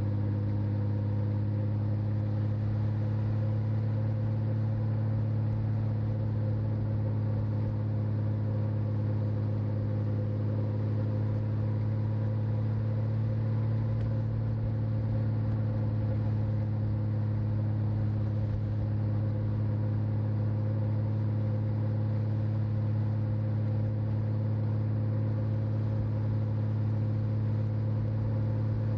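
Honda Valkyrie's flat-six engine running at a steady cruise, a deep, even drone that holds one pitch throughout, heard through a small microphone on the rider's back.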